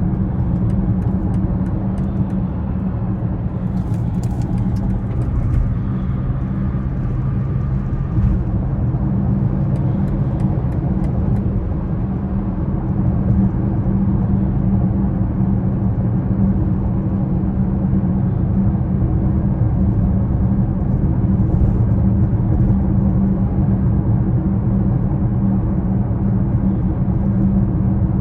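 2020 BMW X6 xDrive40i with its 3.0-litre turbocharged inline-six, driving along: a steady low engine and road rumble with no big changes in pace.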